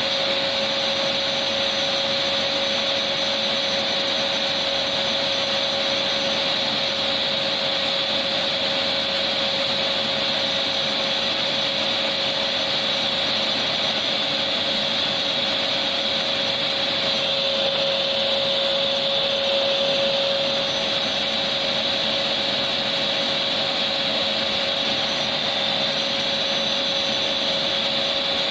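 Electric vacuum cleaner running continuously: a steady rush of air with a constant motor whine, unchanging in pitch.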